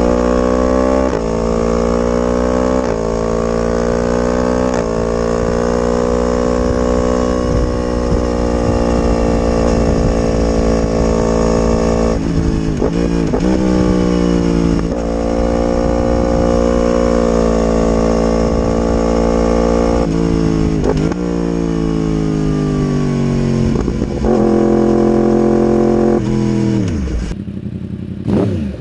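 Yamaha R1 inline-four sport bike with an aftermarket exhaust, accelerating hard through the gears. The engine note climbs and drops back at each upshift, with quick throttle blips in between. Near the end the revs fall away and the sound fades.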